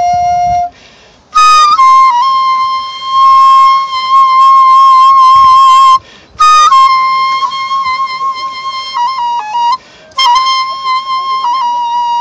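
Daegeum, the large Korean bamboo transverse flute, playing a slow solo melody: long held notes with wavering vibrato, phrases opening with a slide down into the note, and quick ornamental dips near the end. The playing breaks off three times for short breaths.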